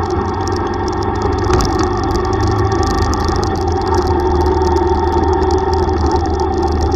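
Yamaha YTX125 single-cylinder motorcycle engine running steadily under way, with no break or rev change.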